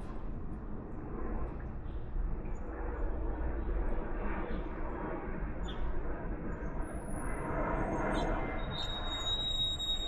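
Steady outdoor rumble and hiss, with a few thin, high bird chirps toward the end; the clearest is a held high note starting near the end.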